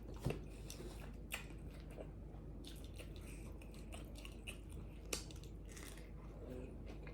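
Close-up chewing of a pizza taco, soft and faint, with a few short sharp crunches or mouth clicks.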